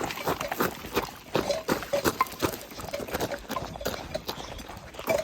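Footsteps of a hiker walking on a trail, about two to three steps a second.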